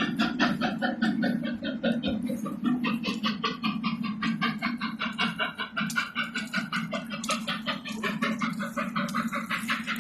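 A railway locomotive working, with a rapid, even beat of several pulses a second over a steady hum.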